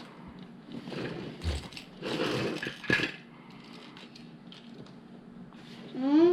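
Loose plastic LEGO pieces being rummaged through and handled, rattling and clattering, with a sharp click about three seconds in. A voice begins near the end.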